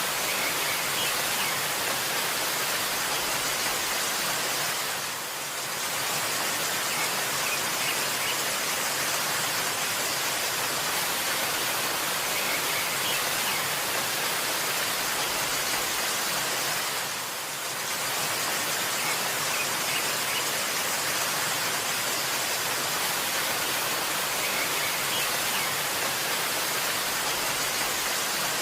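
Waterfall: a steady rush of falling water that briefly dips twice, with a few faint high bird chirps now and then.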